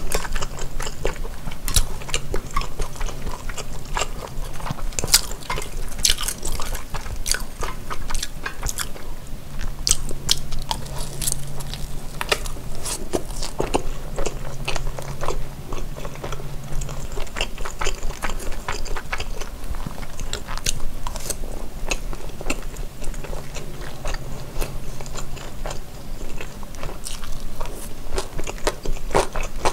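Close-miked chewing and biting of food: a dense, irregular run of wet mouth clicks, smacks and small crunches.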